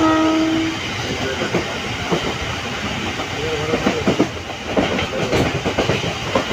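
MEMU electric multiple-unit train running at speed, heard from inside the coach: a steady rumble with wheels clattering over the rail joints. A brief horn note sounds right at the start.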